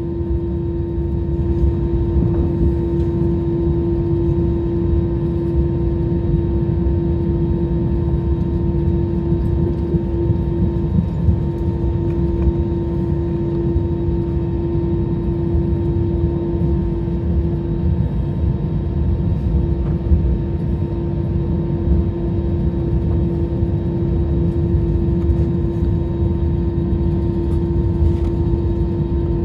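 Jet airliner engines heard from inside the cabin: a steady low rumble under a constant droning hum, getting slightly louder about a second in.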